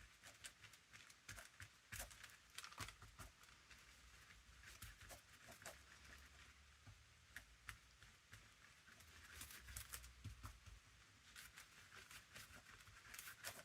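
Faint, scattered rustles and light taps of paper being handled and smoothed down on a desk, under a low hum of room noise.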